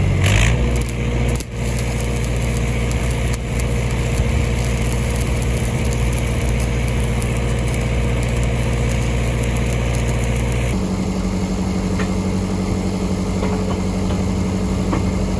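Engine of a Lincoln SAE 300 engine-driven welder running at a steady speed. About eleven seconds in, its hum changes abruptly to a different, higher pitch.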